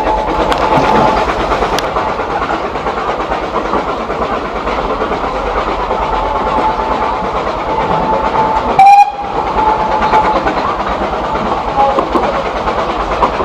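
Narrow gauge steam train running, heard from on board: a steady rumble of wheels on rails with an intermittent thin high tone. A brief loud knock or bump about nine seconds in.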